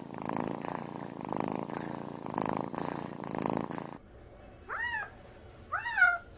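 A cat purring loudly up close, swelling and fading about once a second with each breath. After an abrupt cut, a cat meows twice, each short call rising then falling in pitch, the second louder.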